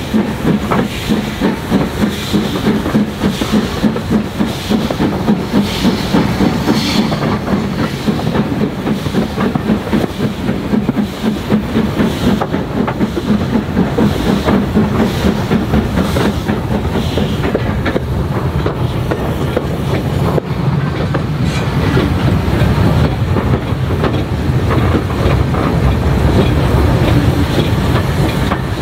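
Steam-hauled train running on the rails with a rhythmic clatter, growing fuller and louder in the second half.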